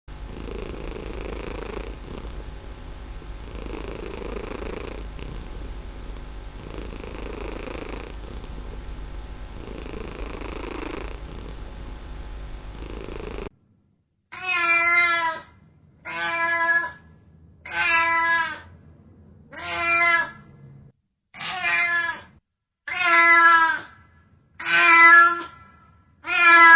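Domestic cat purring steadily for about thirteen seconds, the rumble swelling and easing with each breath. It stops abruptly and gives way to a run of eight meows about a second and a half apart, the last ones loudest.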